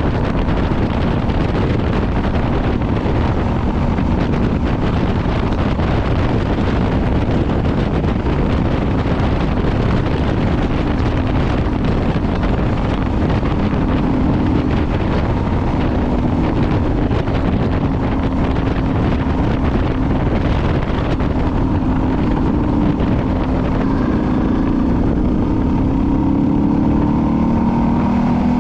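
Suzuki DR650's single-cylinder engine running under way, with heavy wind noise on the microphone. The engine note climbs in the last few seconds as the bike accelerates.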